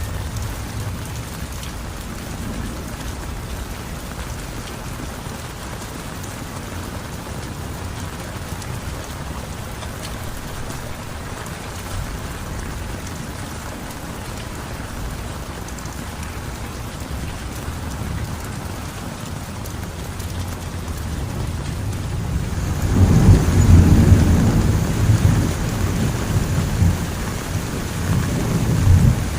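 Heavy rain falling steadily. About three quarters of the way in, a deep rumble of thunder swells up, peaks and slowly rolls away.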